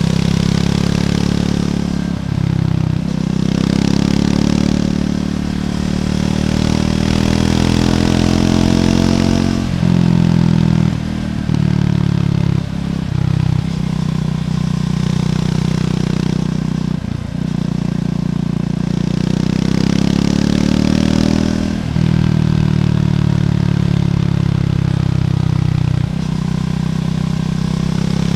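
Triumph Scrambler 400X's single-cylinder engine running through its stock exhaust while riding: the pitch climbs steadily as it pulls through the gears, with brief drops about a dozen times where the throttle is rolled off or a gear is changed. Wind noise rises during the faster stretches.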